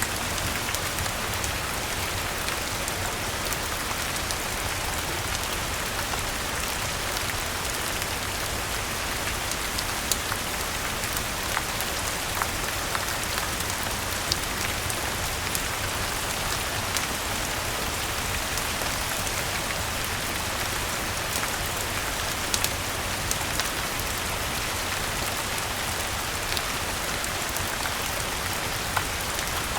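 Steady rain falling, mixed with the crackle of a wood fire in a fireplace: scattered sharp pops and clicks over the even hiss of the rain.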